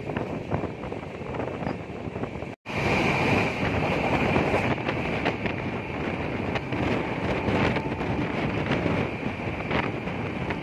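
Running noise of a moving Indian Railways express train at speed, with strong wind buffeting the microphone. The sound breaks off completely for a moment about two and a half seconds in, then comes back just as loud.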